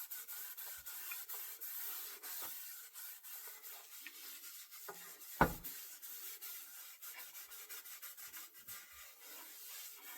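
Quick repeated rubbing strokes on a wooden ash axe handle, worked by hand, with one sharp knock about halfway through.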